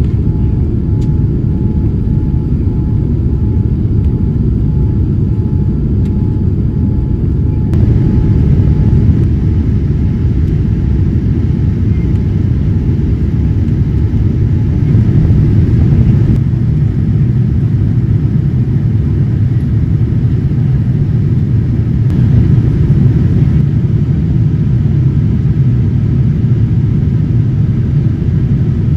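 Steady low rumble of engine and airflow noise inside the cabin of a Boeing 787-9 airliner in flight, growing slightly louder about eight seconds in.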